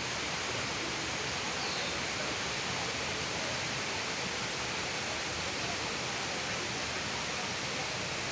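Waterfall: a steady, unchanging rush of falling water, a full hiss strongest in its high end.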